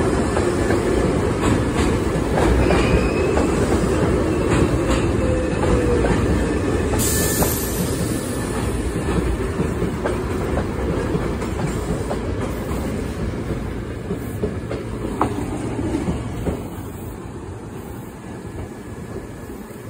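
Hankyu electric train running along the track, with wheels clicking over rail joints and light wheel squeal. A short hiss comes about seven seconds in, and the noise fades toward the end.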